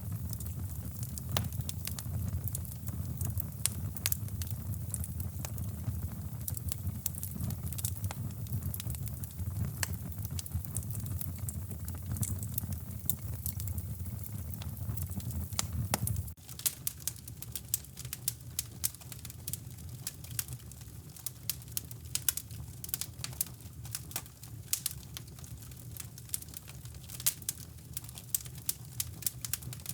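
Crackling fireplace fire, frequent sharp pops and snaps, over a deep steady brown-noise rumble. About halfway through the rumble drops away suddenly, leaving the crackling more exposed.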